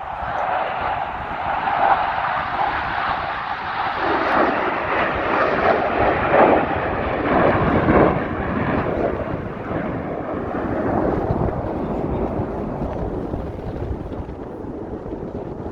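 Airplane engine noise from an aircraft passing overhead: it builds, is loudest a few seconds into the pass, then slowly fades away.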